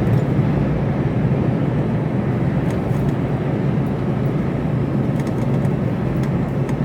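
Steady drone of a Mercedes Actros lorry heard from inside its cab, low and even with no changes.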